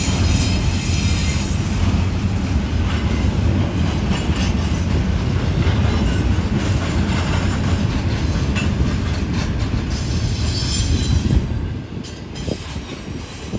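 Double-stack intermodal freight cars rolling past on steel rails: a steady rumble of wheels with faint high wheel squeal at times. The sound drops away about twelve seconds in as the last car clears.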